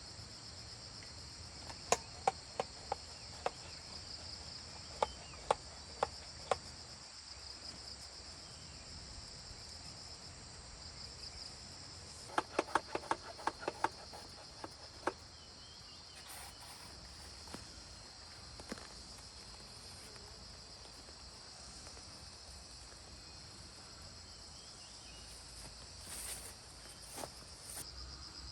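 Steady high insect chirring, like crickets, with two runs of sharp knocks: one a couple of seconds in and one about halfway through.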